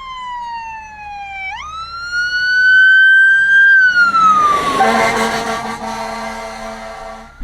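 A wailing siren tone that falls, jumps up, rises and falls again, then a train horn blast: several steady notes sounding together for about two and a half seconds before cutting off.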